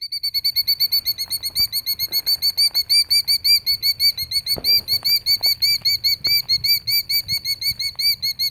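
A killdeer giving its alarm call: a fast, unbroken string of shrill, rising-and-falling notes, about seven a second. It is a parent bird alarmed by an intruder near its nest.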